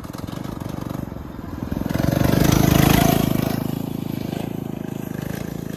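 Small 99cc four-stroke mini bike engine running under throttle; it swells to its loudest about three seconds in, then eases back.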